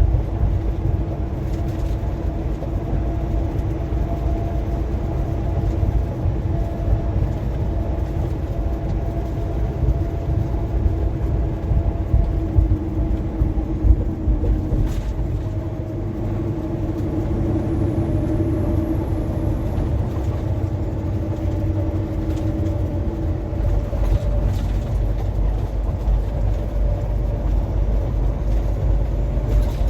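Steady engine and road drone inside a moving truck's cab: a low rumble with a held hum that drifts slightly in pitch, and a single brief tick partway through.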